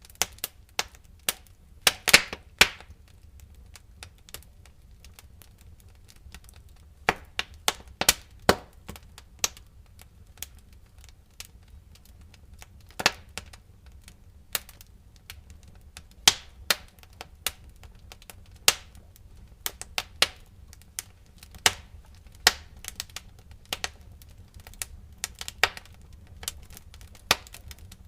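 Wood fire in a fireplace crackling and popping: irregular sharp pops, several a second at times, with louder cracks about two, eight and thirteen seconds in, over a low steady rumble.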